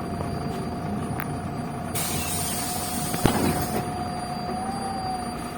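Ride inside a MAZ-105 articulated city bus: the running drive with a steady whine, a burst of air hiss from the bus's pneumatic system about two seconds in, lasting nearly two seconds, and a single sharp knock just after it begins to fade.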